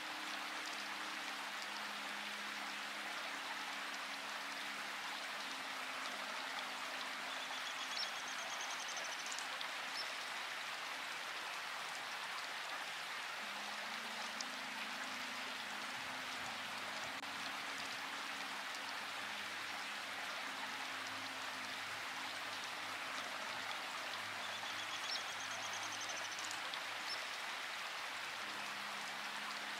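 Steady rain falling, with soft low sustained tones changing pitch every few seconds beneath it. A short high chirping call sounds twice, about eight seconds in and again near the end.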